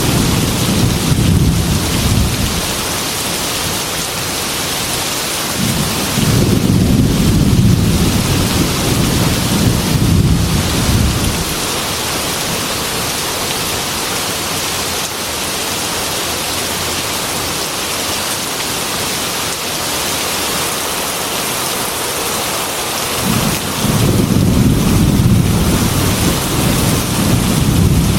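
Heavy rain falling steadily on a glass window, with long low rolls of thunder: one fading out about three seconds in, another from about six to eleven seconds, and a third starting near the end.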